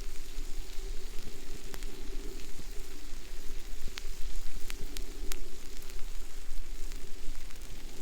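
Steak sizzling on a stone heated over a campfire: a steady hiss with a few sharp pops.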